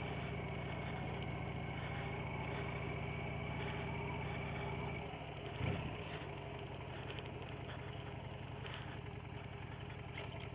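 Motorcycle engine running at low speed with a steady low note. About five seconds in, the note drops and runs quieter, with a brief louder sound just after.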